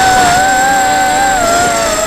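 Eachine Racer 250 quadcopter's brushless motors and propellers whining, the pitch wavering up and down as the throttle changes, over a rumble of strong wind.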